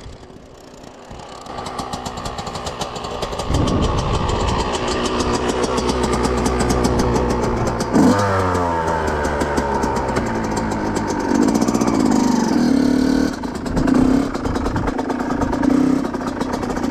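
2005 Yamaha YZ125's 125cc two-stroke single-cylinder engine running, growing louder over the first few seconds, with a sharp rev about eight seconds in and several short throttle blips in the last few seconds.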